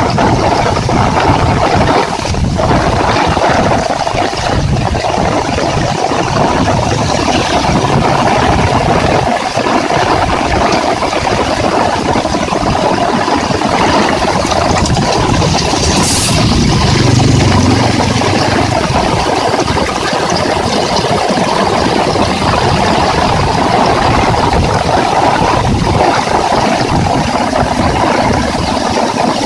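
Heavy rain falling steadily, a loud even hiss with a low rumble underneath. About halfway through there is a short sharp hiss and a brief swell in the rumble.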